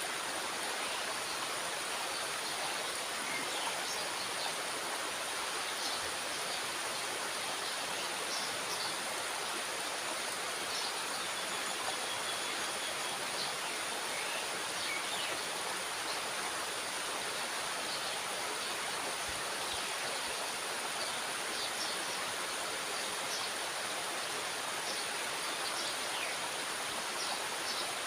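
Steady rush of water pouring through a dam's spillway gate, with a few faint short chirps scattered over it.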